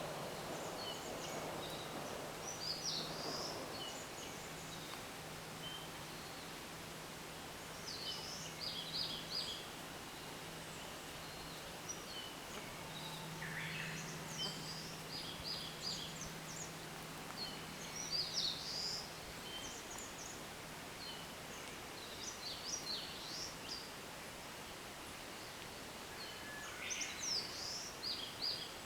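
Wild songbirds singing in spring, short high song phrases coming every few seconds, over a faint steady low hum.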